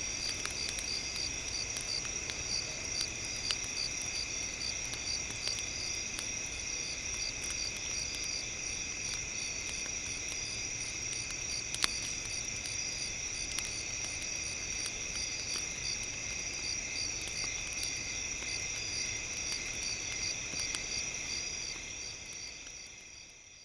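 Campfire ambience: scattered faint crackles with one sharper pop about halfway through, over a steady high chirring like a cricket chorus. It fades out near the end.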